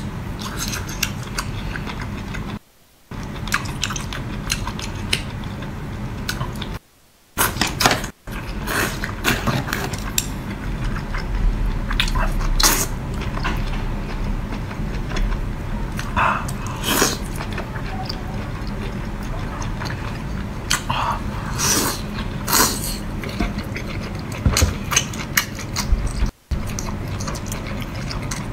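Close-miked chewing and biting of spicy seafood from a seafood boil: irregular wet crunches and clicks over a steady low hum, broken by a few brief drops to silence.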